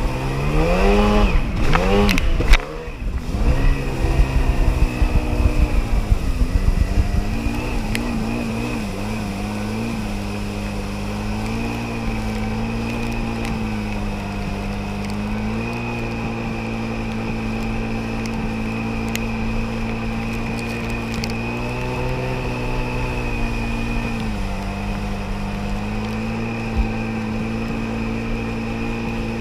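1994 Sea-Doo XP 80 hp jet ski engine under way. In the first few seconds it revs up and wavers, with the hull knocking over the water and a sharp thump. It then settles into a steady cruising drone, easing off slightly twice.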